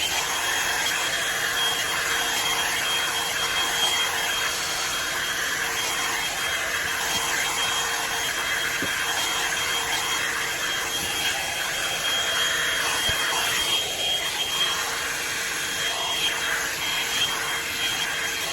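Drybar Double Shot blow-dryer brush switched on and running steadily: a loud rush of air with a thin high motor whine.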